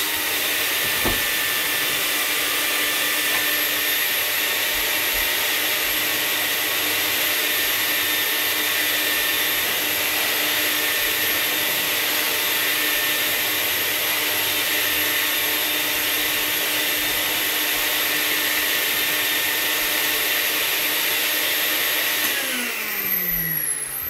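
Vax 121 wet-and-dry vacuum cleaner's 1000-watt motor running steadily while dry vacuuming. Near the end it is switched off and its pitch falls as the motor winds down.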